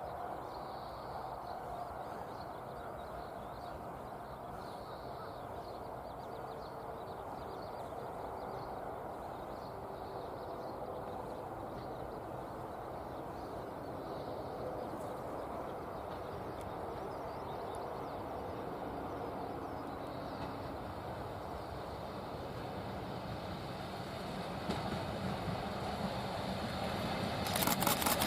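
Outdoor background with faint bird calls, while an approaching train slowly grows louder. About 27 seconds in, the electric locomotive and its train arrive with a loud rumble and a rapid, regular clatter.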